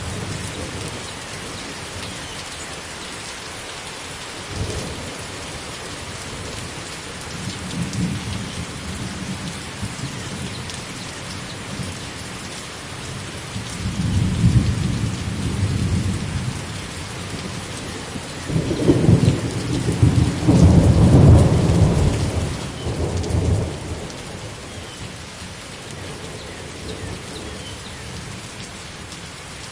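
Steady rain falling, with thunder rumbling low several times: a longer rumble about halfway through and the loudest, longest one lasting some five seconds about two-thirds of the way in.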